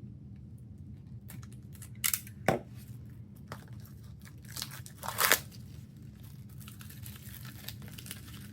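Plastic shrink-wrap being torn and crumpled off a music album: sharp rips about two seconds in and again near five seconds, then faint crinkling.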